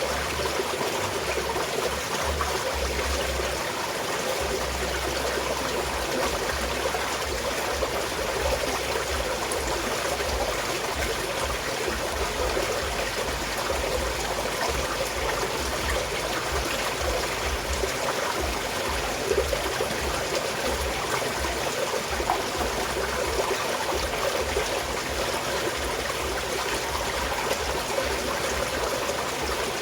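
Small mountain stream flowing steadily, water trickling and splashing over rocks in an even, unbroken rush.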